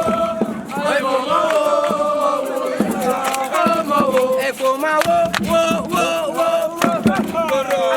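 A group of voices singing a chant together, the melody stepping up and down, with scattered sharp clicks over the singing.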